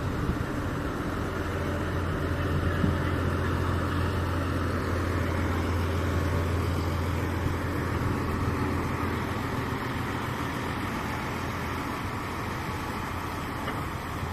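River boat's diesel engine running with a steady low drone, easing off a little in the second half.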